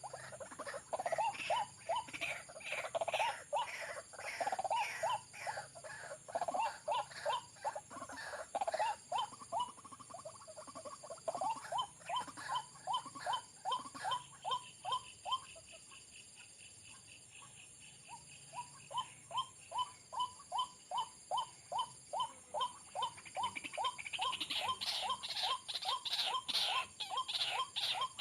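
White-breasted waterhen calling: a long run of short, repeated calls, about three a second. The calls break off for a few seconds midway, then start again, and grow louder near the end.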